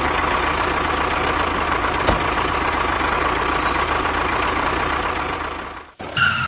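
Truck engine running steadily at idle, fading out near the end.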